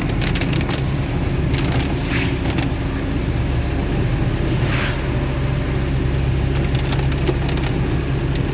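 Chevy S10 pickup's engine idling with a steady low hum while heavy rain strikes the truck in many irregular sharp taps, with a couple of brief hissy swishes.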